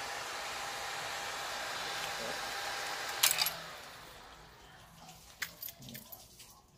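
Small electric oil-cooler fan fitted to a Rusi Classic 250 motorcycle, blowing steadily with a faint whine. It is switched off with a sharp click about three seconds in and winds down to a stop. A few light clicks of handling follow.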